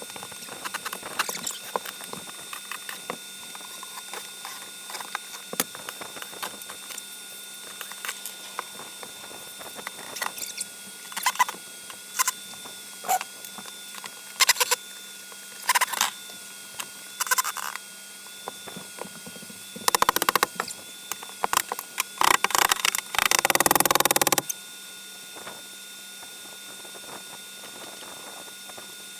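Scraping, creaking and clicking as a built-in wooden TV cabinet is pried and pulled out of an RV wall, with scattered sharp knocks. A louder, harsher stretch of noise lasts a few seconds past the middle.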